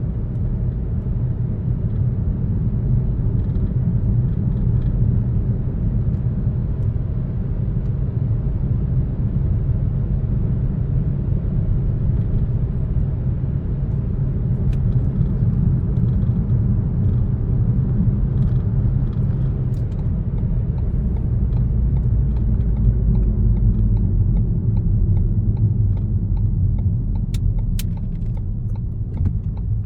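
Car driving along a road: a steady low rumble of tyres and engine, with a few faint clicks near the end.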